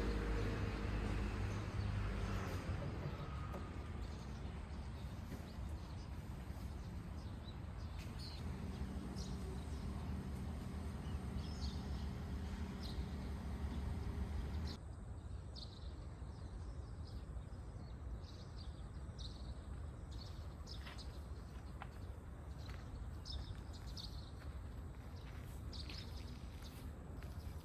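Outdoor ambience of birds chirping in short scattered calls over a steady low background hum; the background changes abruptly about halfway through.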